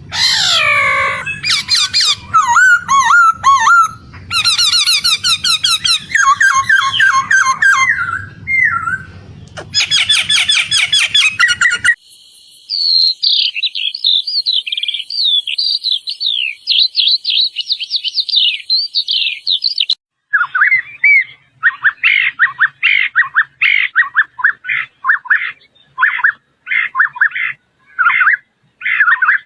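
Birds singing and calling in three spliced recordings. First come varied whistles and fast trills, about twelve seconds in a high, thin twittering takes over, and near twenty seconds it changes to a run of quick, repeated chip notes.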